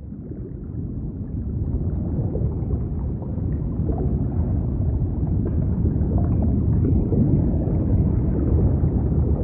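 A low, gurgling rumble that fades in and grows steadily louder, with a few faint ticks.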